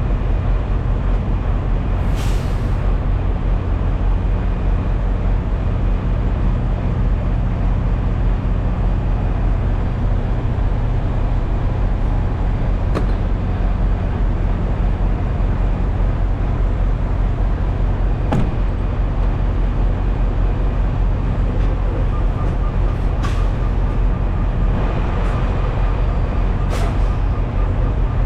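Steady diesel engine drone and road noise of a Freightliner semi truck heard from inside the cab while cruising, with a few brief sharp clicks or rattles.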